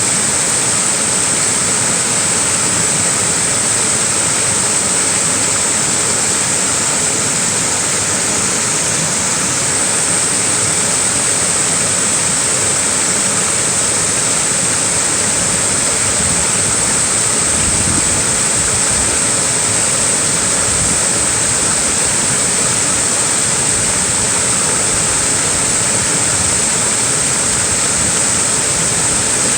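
Small waterfall splashing steadily, a continuous even rush of falling water with a bright hiss.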